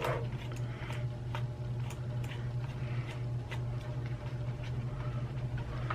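Scattered light clicks and ticks of a tiny screwdriver working a small screw out of a plastic computer mouse, over a steady low hum.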